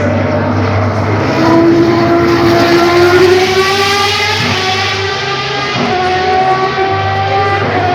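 Historic Formula One car engine accelerating hard. The pitch climbs, drops about five seconds in as it changes up a gear, then climbs again.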